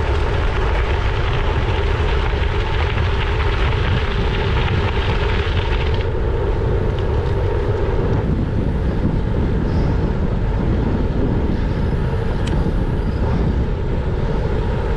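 Steady rush of wind buffeting a GoPro Hero 9's microphone on a moving gravel bike. About six seconds in the higher hiss drops away and the noise changes character.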